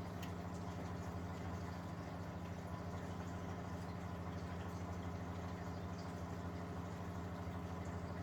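1971 Constructa Garant 491 washing machine running a 100 °C boil wash: a steady motor hum with water sloshing and gurgling in the drum.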